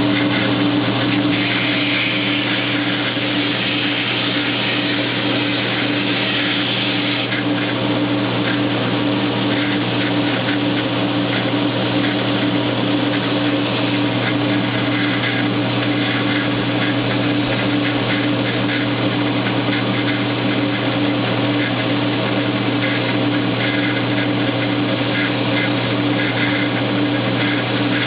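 KMG belt grinder running steadily, with a steel throwing-knife blade pressed to the abrasive belt to clean up its edges and grind chamfers. The grinding hiss brightens in stretches, most strongly in the first several seconds.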